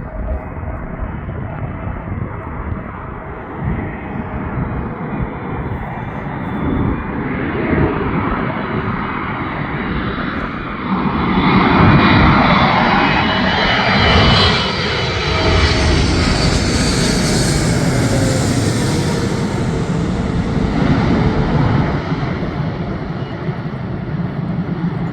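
An airplane's engines passing close by. The noise builds over the first half, becomes loud about halfway through, and keeps a high whine that swells and then eases off.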